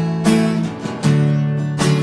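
Acoustic guitar chords strummed, three strums with ringing chords between them, with no singing.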